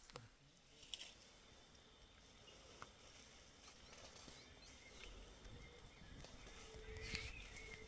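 Near silence: faint outdoor ambience with a few soft clicks, the most noticeable one near the end.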